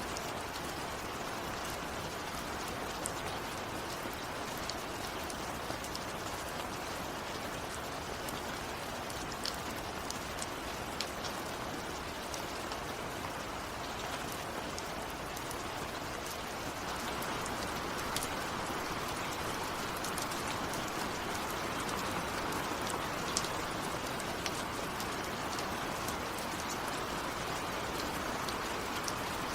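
Steady rain falling, with scattered sharper drop ticks over the hiss; it gets a little louder just past halfway.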